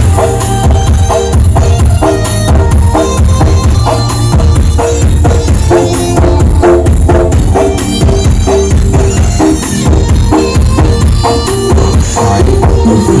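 Loud music with drums, tambourine and a heavy, deep bass line, played through a giant sound system with subwoofers.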